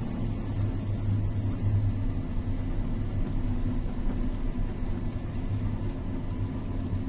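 Steady low mechanical hum and rumble under an even rushing noise, unchanging throughout.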